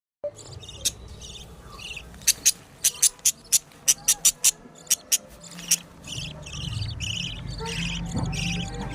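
Budgerigar chicks chirping, with a quick run of short, sharp, high peeps in the first half. A low hum builds up from about six seconds in.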